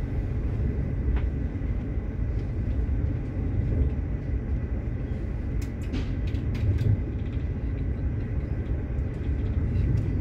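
Passenger train running at speed, heard from inside the carriage: a steady low rumble of wheels on the track, with a short cluster of sharp clicks about six seconds in.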